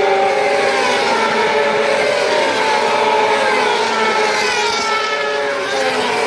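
Several superbike engines running at high revs together, their pitches rising and falling with throttle and gear changes as the bikes pass.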